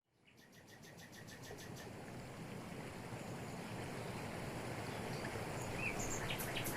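Jungle waterfall pouring over rocks, a steady rush of water fading in from silence. A fast, high, pulsed trill sounds over it in the first two seconds, and another starts near the end.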